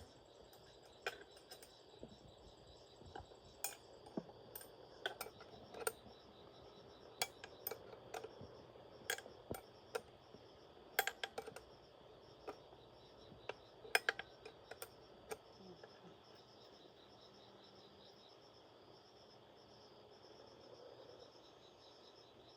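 Irregular light clinks and taps of tools on metal machine parts, stopping about fifteen seconds in, over steady chirping of insects.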